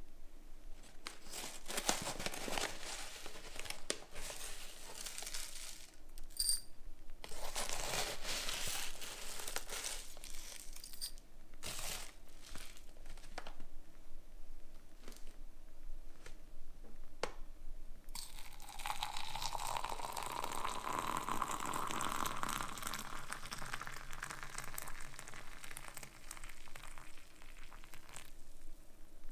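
Tea being made by hand: a wrapper or packet crinkling and tearing in several bursts, with a light clink about six seconds in. Then liquid, likely hot water, is poured steadily for about ten seconds before stopping.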